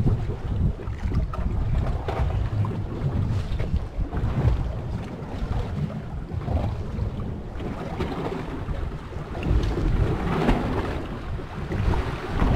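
Wind buffeting the microphone over water washing against a fishing boat at sea, an uneven low rumble that swells and eases.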